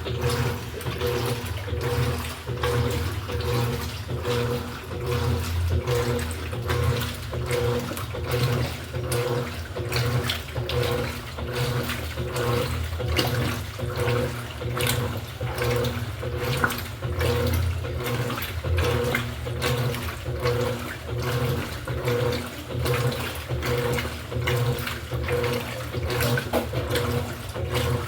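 Electrolux LED14 top-load washing machine running with water in the tub: water churning and splashing over a steady low motor hum, with a few tones that pulse at an even rhythm.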